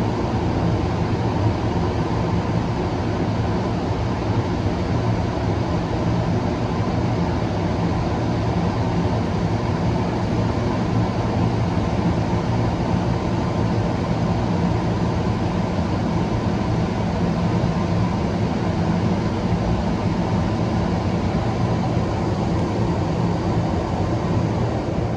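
Beauty 'Miyabi' gantry car wash machine running, heard from inside the car: a steady rushing noise with a low hum, easing off right at the end.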